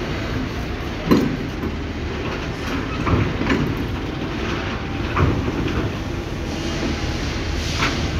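Railway carriage being moved on a workshop traverser: a steady low rumble with a sharp knock every second or two, five in all.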